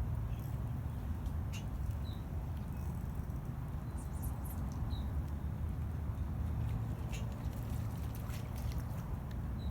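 Steady low outdoor rumble with trickling water from the river, broken by scattered light ticks and three short high chirps.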